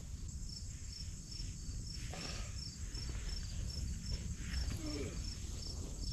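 Crickets chirping in a steady rhythm, about two chirps a second, over a continuous high insect drone, with a couple of faint rustles.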